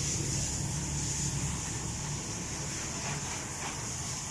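A car engine running, its low hum easing off after about a second and a half, over a steady high hiss.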